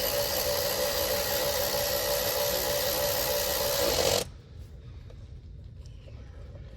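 Small electric power tool motor running steadily at one speed, then stopping abruptly about four seconds in, with a few faint clicks after.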